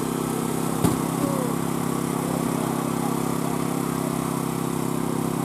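An engine running steadily at a constant speed, with one sharp clack about a second in.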